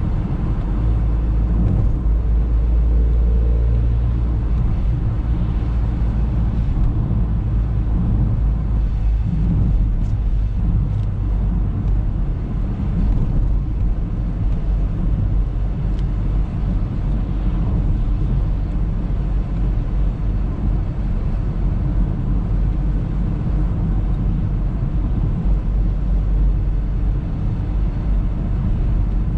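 Audi A3 driving at a steady pace, a constant low rumble of engine and road noise.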